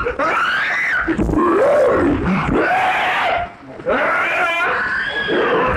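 A person's voice making non-speech noises: a run of wails and groans that swoop up and down in pitch, mouth-made car sounds.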